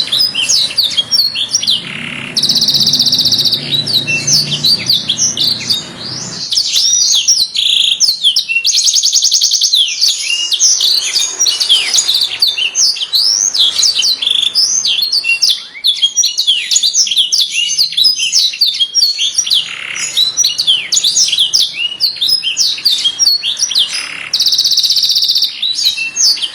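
Canary song: a continuous stream of fast rising and falling whistled notes, broken three times by a rapid buzzy trill.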